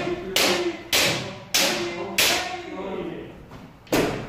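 Kendo sparring: bamboo shinai striking armour and feet stamping on the wooden floor, five sharp cracks and thuds in about four seconds, with shouted kiai between them.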